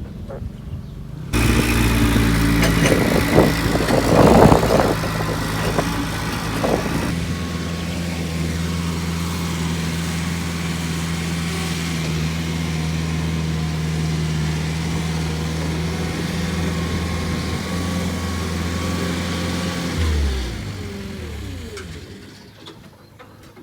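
Vehicle engine running steadily, louder and busier for a few seconds near the start, then shut off about twenty seconds in, its pitch falling as it winds down.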